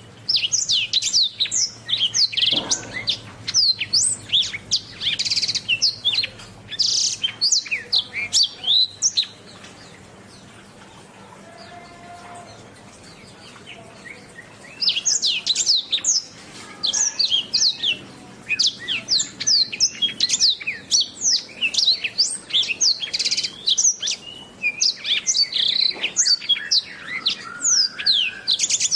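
Domestic canary singing a fast song of rapid, high sweeping notes and trills, in two long bouts with a pause of about five seconds in the middle.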